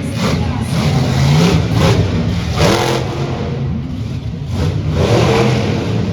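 Monster truck engine revving loudly, its pitch rising and falling.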